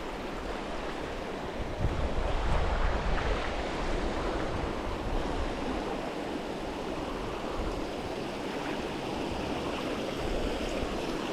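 Steady rushing of water pouring over small river waterfalls, with wind buffeting the microphone for a moment about two seconds in.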